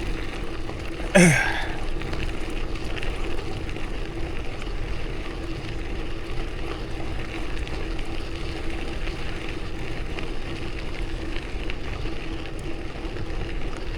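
Bicycle tyres rolling on a crushed-gravel rail trail: a steady crackling rush with wind on the microphone and a faint steady hum, and a short falling voice sound about a second in.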